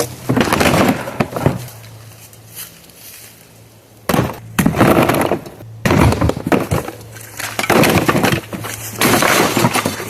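A dishwasher being broken apart by hand: bursts of breaking and clattering parts, four rounds of it with a quieter pause about two to four seconds in.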